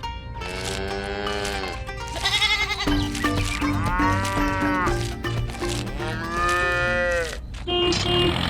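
Three long, drawn-out farm-animal calls with rising-then-falling pitch, over a simple background tune. An engine starts running again near the end.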